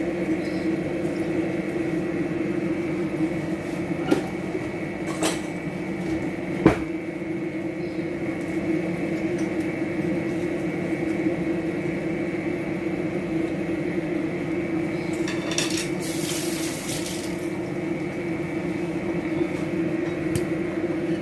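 Kitchen utensils and dishes clinking a few sharp times during marinade preparation, with a brief hiss about sixteen seconds in, over a steady background hum.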